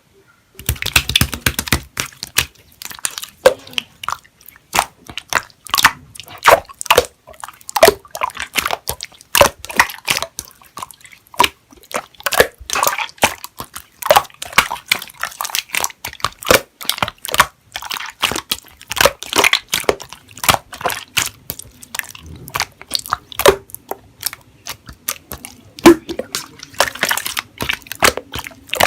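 Slime being squeezed and pressed by hand, giving a dense, irregular run of wet clicks, pops and crackles.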